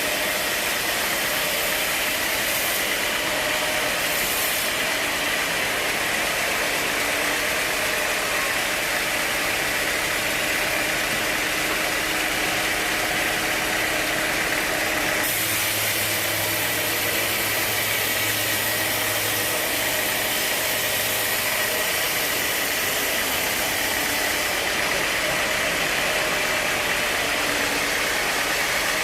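Sawmill machinery running steadily, a continuous mechanical drone with a high whine; its tone shifts about fifteen seconds in.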